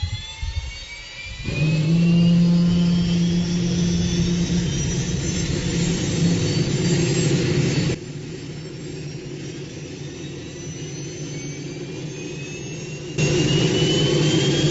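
Jet engine turbine running: a steady roar under high whines that slowly rise in pitch as it spools. The sound cuts abruptly to quieter about eight seconds in and back to loud near the end.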